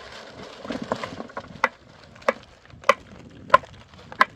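A hand tool strikes wood in a steady rhythm of about three blows every two seconds, five blows in all from about a second and a half in, each with a short ringing crack. Before the blows there is a rustling.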